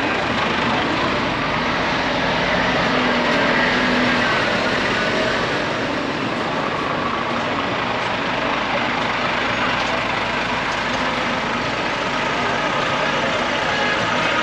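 Diesel lorry engines running steadily at low revs, a continuous mechanical noise with no sudden events.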